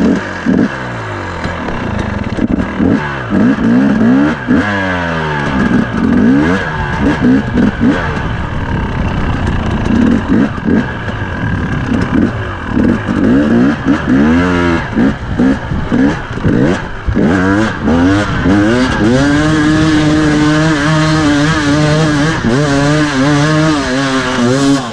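A 2017 KTM 250 EXC two-stroke dirt-bike engine under hard load on a steep, slick hill climb, its revs rising and falling rapidly again and again. For the last several seconds the engine holds steadier, wavering revs.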